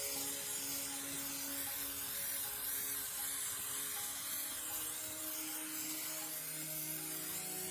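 A steady, even hiss, like spray or escaping air, running without a break.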